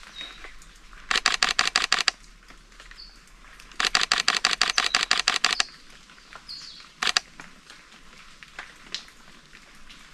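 Camera shutter firing in rapid bursts at about ten clicks a second: a one-second burst, then a two-second burst, and later a single click. A couple of short bird chirps fall between them.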